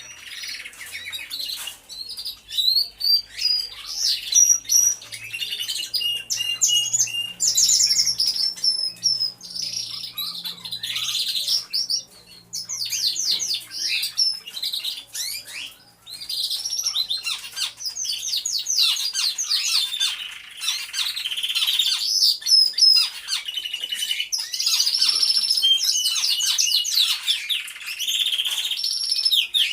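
Many domestic canaries singing at once, a chorus of overlapping rapid trills and whistled notes that never pauses.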